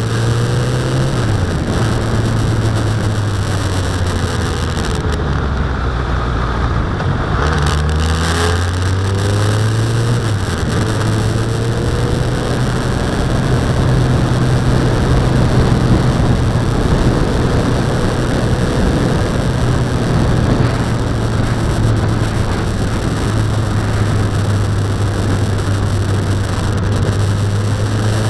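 Suzuki Bandit's inline-four engine running along at road speed, with wind rushing over the helmet-mounted action camera's microphone. The engine note dips and recovers a few times, near the start and again about seven to ten seconds in.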